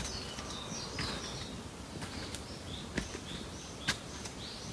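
Forest birds calling, a run of short high chirps over a soft outdoor hush, with a few sharp clicks, the loudest near the end.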